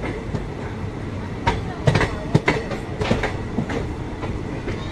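Passenger coaches of a departing express train rolling past, with a steady low rumble and a run of sharp wheel clacks over the rail joints in the middle.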